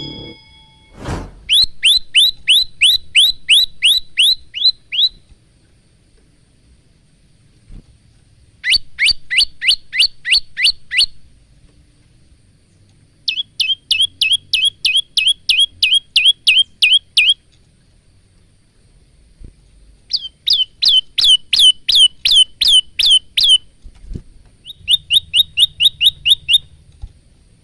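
Male olive-backed tailorbird singing: five bursts of rapid, repeated sharp downslurred notes, about four a second, with pauses of a few seconds between bursts.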